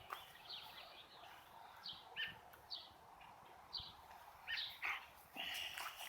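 Birds chirping: a string of short, high calls a second or so apart, with a slightly longer call near the end.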